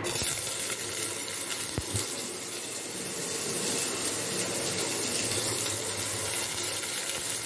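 Sliced onion sizzling in hot oil as handfuls are dropped into the pan, a steady hiss with a few small clicks.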